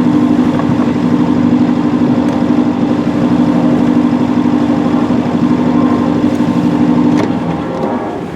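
Sailboat's auxiliary engine running steadily under way, a droning hum that drops away about seven seconds in, leaving a rushing noise.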